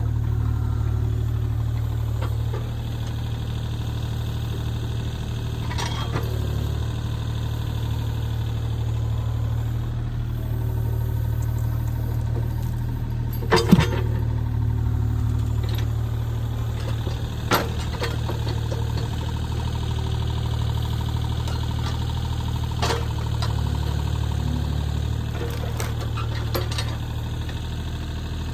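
An engine running steadily at low speed, with a few sharp knocks or clacks now and then.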